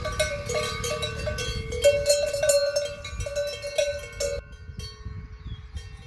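Cowbells worn by cattle clanking irregularly as the cows move, several bells of different pitch ringing at once. The clanking thins out about four seconds in.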